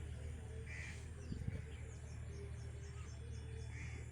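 Birds chirping outdoors: a quick run of faint high chirps and a couple of short calls over a steady low rumble. There is a soft thump about a second and a half in.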